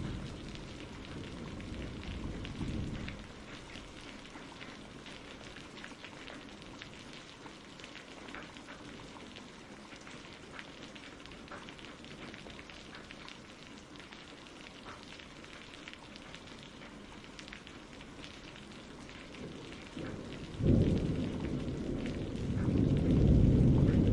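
Steady rain falling with many small drop ticks. Thunder rumbles fade out a few seconds in, then a sudden clap of thunder comes near the end, swelling into a long, loud rumble.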